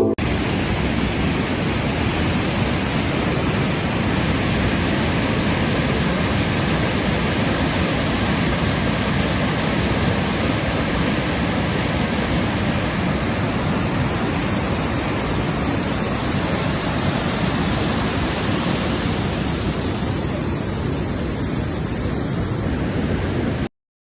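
Steady, even rushing noise with no pitch or rhythm, like rushing water, which cuts off suddenly near the end.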